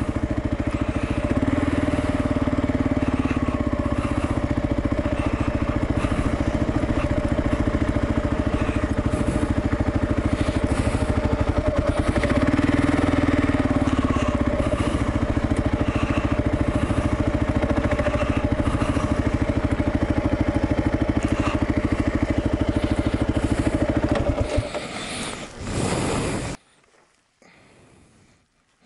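Kawasaki KLR650's single-cylinder four-stroke engine, fitted with a Lexx MX aftermarket exhaust, running steadily at low speed on dirt, pulling a little harder twice. Near the end the engine note falls away, there is a brief loud burst, and then the engine is switched off, leaving near silence.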